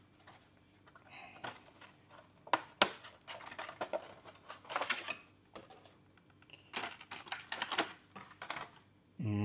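A Funko Pop's cardboard box and plastic insert being handled and opened by hand, with irregular crinkles, rustles and light clicks. A short vocal sound that falls in pitch comes right at the end.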